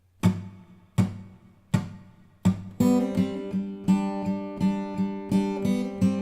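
Acoustic guitar intro: four single struck chords about three-quarters of a second apart, each left to ring and fade. About three seconds in, a steady rhythmic strummed pattern begins.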